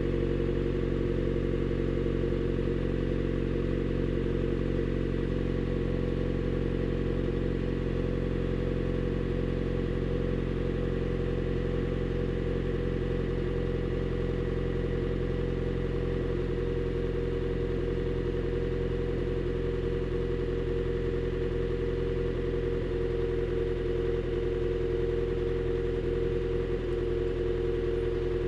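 Honda Shuttle Hybrid's 1.5-litre four-cylinder engine idling steadily through an HKS Silent Hi-Power aftermarket muffler. The exhaust note holds an even, low hum with no revving. The hybrid is held in maintenance mode, so the engine keeps running at idle instead of shutting off.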